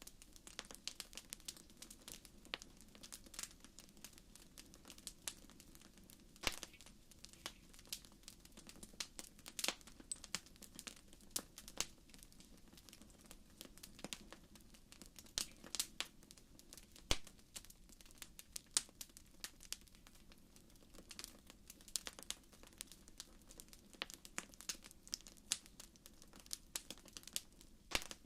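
Wood fire crackling in a fireplace: irregular sharp pops and snaps, several a second and a few louder than the rest, over a faint low steady noise of the burning.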